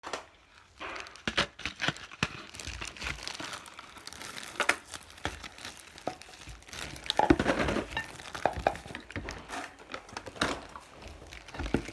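Crinkling and rustling of handled wrapping, with scattered sharp clicks and taps; loudest about seven seconds in.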